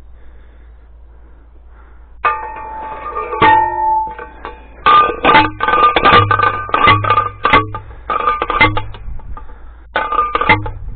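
Manual T-post driver slamming down onto a steel T-post, about a dozen ringing metallic clangs at an irregular pace of one or two a second, starting about two seconds in.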